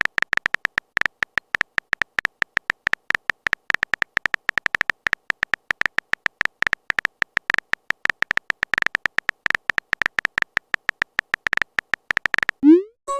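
Phone-typing sound effect: a dense, irregular run of very short tapping beeps, all at about the same pitch, as a message is typed out. Near the end it stops and a short rising swoosh follows.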